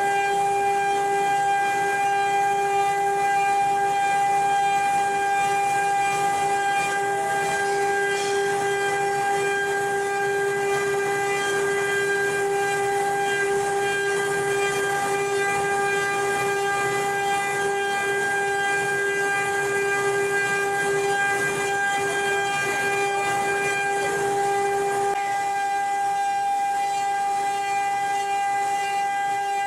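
CNC wood-carving router spindle running at speed: a steady, high-pitched whine with a hiss of cutting underneath.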